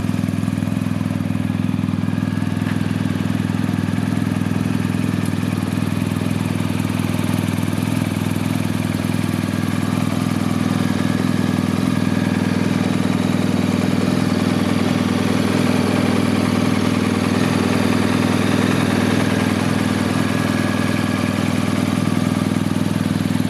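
BMW R1250 GS's boxer twin engine running at a steady idle, a little louder in the second half.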